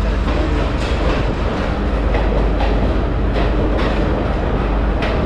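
Passenger train running along the line, heard from aboard: a steady loud rumble with repeated clacks of the wheels over rail joints.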